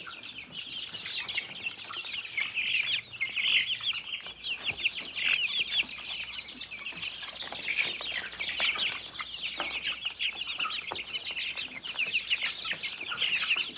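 A flock of chickens cheeping continuously: many short, high calls overlapping in a dense chorus.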